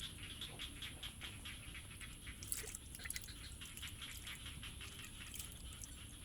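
Outdoor chorus of calling insects: rapid, even chirps about five or six a second over a steady high whine, with a couple of brief clicks about two and a half and three seconds in.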